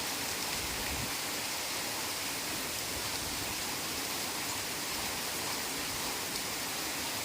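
Heavy rain falling steadily on a forest, a dense even hiss with faint scattered drop ticks.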